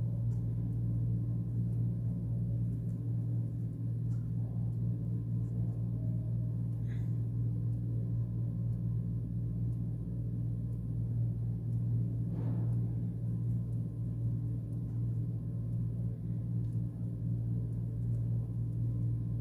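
A steady low hum with several overtones, unchanging throughout, with a couple of faint soft ticks over it.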